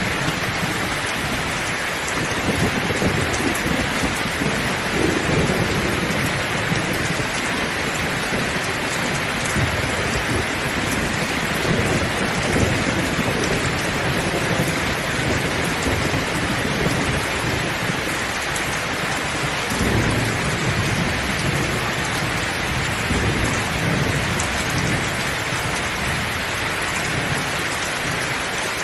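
Heavy rain pouring in a steady hiss, with a low rumble that swells and fades several times underneath.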